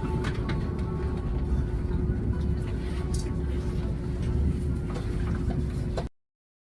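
Seoul subway train running, a steady low rumble with a constant hum and a few light clicks, cut off abruptly about six seconds in.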